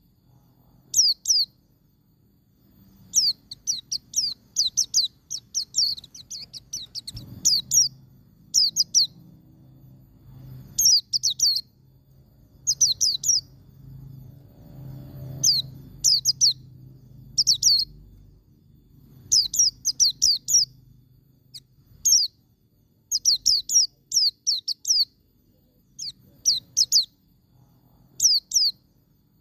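White-eye (pleci) singing in the rapid 'ngalas' style: quick bursts of high, thin, downward-slurred notes, each burst about a second long, repeated over and over with short pauses between. A faint low hum lies underneath.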